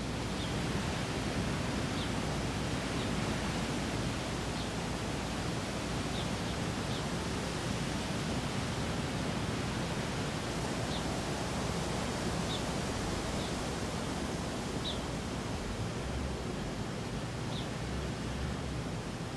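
Steady outdoor background noise, an even hiss, with faint short high chirps of small birds every second or two.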